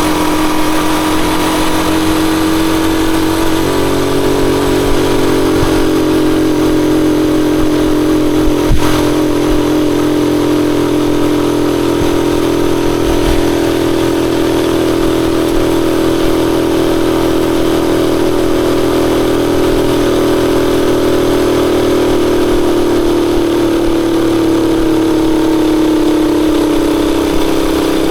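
Rusi Chariot 175 motorcycle engine running steadily under way, its note stepping once a few seconds in and sinking slowly near the end as it slows. A single click about nine seconds in.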